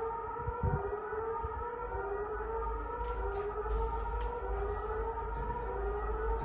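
Warning siren wailing, its pitch wavering slowly up and down, over a low rumble on the microphone.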